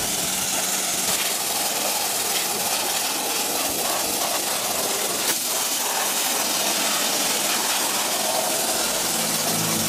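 Dry ice blasting nozzle's compressed-air jet hissing steadily as it cleans a car engine.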